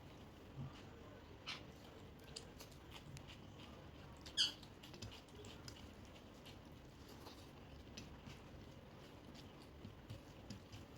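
Eating sounds of rice and spicy chicken masala gravy: scattered soft clicks, smacks and squelches of food being handled and chewed, with one sharper click about four seconds in.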